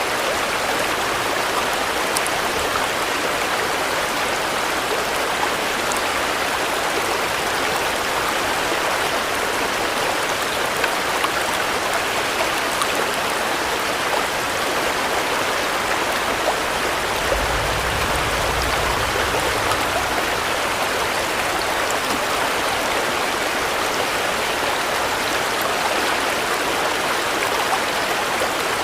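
Steady heavy rain, a dense even hiss with no letting up, with a brief low rumble about two-thirds of the way through.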